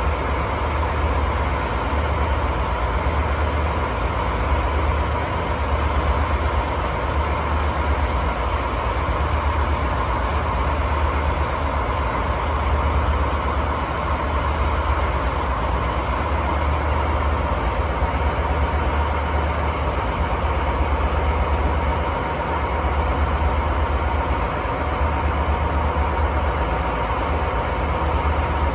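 DD51 diesel locomotive's twin V12 diesel engines running steadily shortly after start-up: a constant low drone with a steady whine above it.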